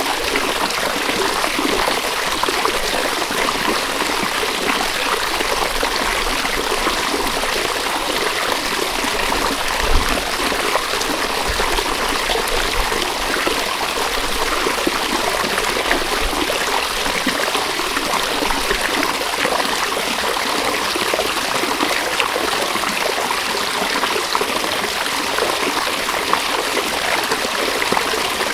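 River water flowing steadily, an even rushing and trickling, with a faint low rumble for several seconds near the middle.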